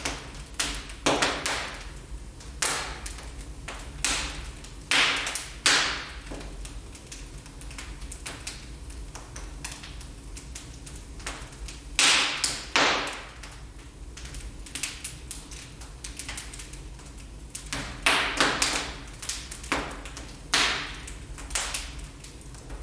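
Wood fire burning in a fireplace, crackling with frequent small ticks and about seven louder snapping pops that fade quickly.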